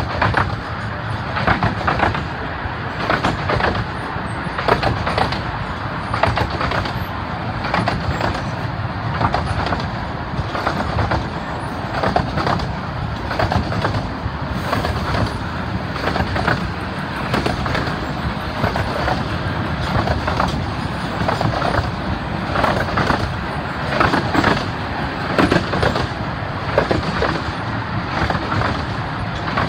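Carriages of a 15-inch-gauge miniature railway train running along the track: a steady rumble and rattle with frequent irregular clacks from the wheels on the rails.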